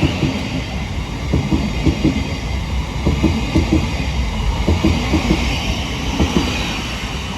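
Southeastern Class 707 electric multiple unit running past as it pulls out: a steady low rumble with a stream of short knocks from the wheels passing over the rail joints, easing slightly near the end.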